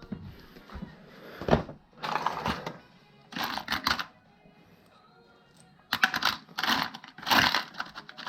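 Short bursts of metallic clinking and rattling with a sharp knock about a second and a half in, like hand tools and small metal parts being handled during repair work.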